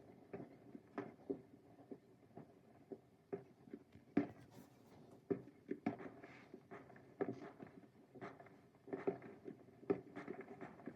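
Fireworks going off at a distance: faint, irregular pops and bangs, sometimes several in a second, over a low steady hum.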